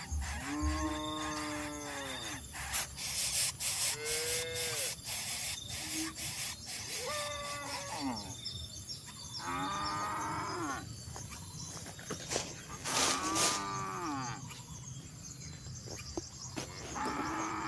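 A series of about six drawn-out, moo-like animal calls, each rising and then falling in pitch, with a few short clicks between them.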